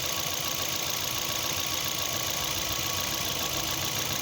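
2013 Suzuki Swift's four-cylinder petrol engine idling steadily while misfiring on cylinder 4, a fault traced to a cracked ignition coil arcing to the engine.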